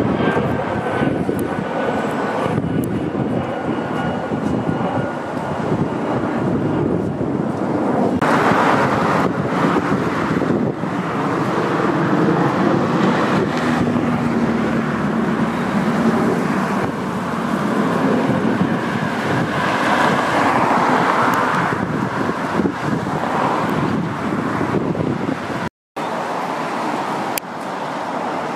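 Continuous engine roar, swelling a little midway, with a sudden brief cut-out near the end.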